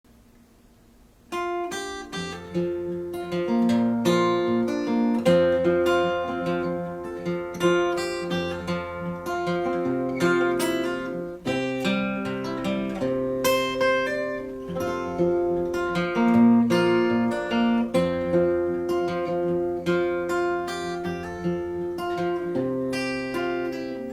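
Acoustic guitar playing a song's instrumental intro, plucked and strummed chords in a steady rhythm over low bass notes, starting about a second in.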